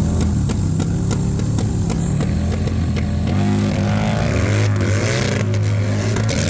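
Harley-Davidson bagger drag bike's V-twin engine held at high revs on the start line with a fast, steady pulsing, then launching about three seconds in and accelerating away down the drag strip, its pitch rising through the gears.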